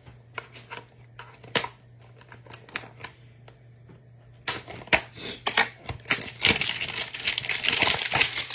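Trading cards and their packaging handled by hand: scattered light clicks and taps, then from about halfway in a dense crinkling and tearing of plastic wrapping as the next pack is opened.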